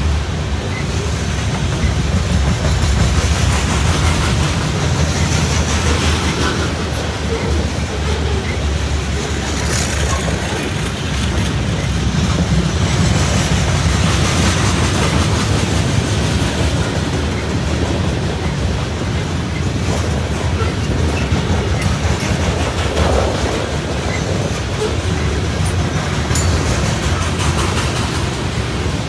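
Freight train of covered hopper cars rolling past close by: a steady, loud rumble of steel wheels on rail with a clickety-clack clatter.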